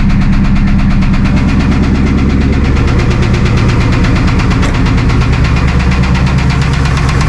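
Chevrolet LS1 5.7-litre V8 running steadily at idle with a rod knock, the sign of a failing connecting-rod bearing.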